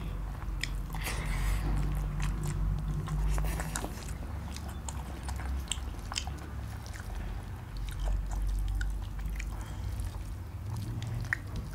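Close-up eating sounds: two people chewing mouthfuls of rice and mutton curry eaten by hand, with scattered wet smacks and small clicks over a low steady hum.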